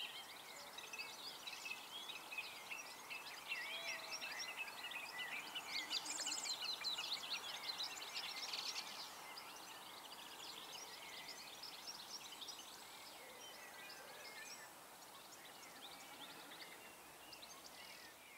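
Wild birds chirping and singing, a busy run of high, quick notes that is loudest for a few seconds in the middle.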